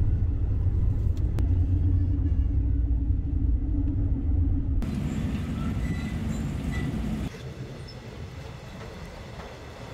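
Steady low rumble of a moving passenger train, heard from inside a sleeper berth. About five seconds in it changes to a thinner, hissier running noise, which turns quieter about two seconds later.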